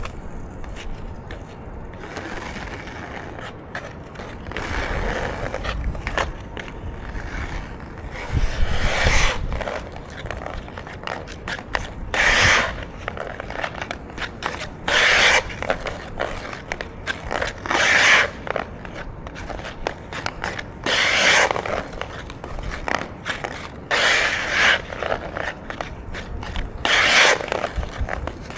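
Ice skate blades scraping and carving on ice, with a strong scrape about every three seconds in the second half.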